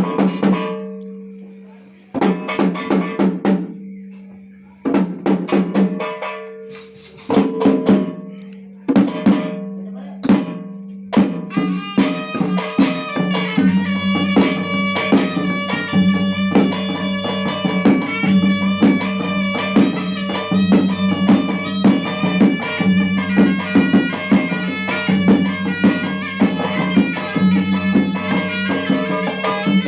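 Bugis gendang drums beaten in short rhythmic phrases separated by brief pauses. About eleven seconds in, the drumming turns continuous and a sustained melodic instrument joins, forming a full traditional ensemble.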